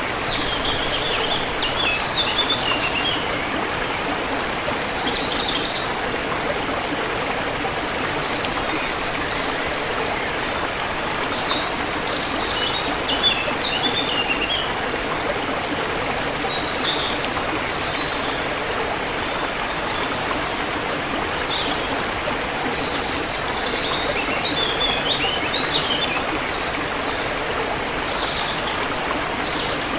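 A stream running steadily, with several short bouts of small birds chirping and twittering over the water.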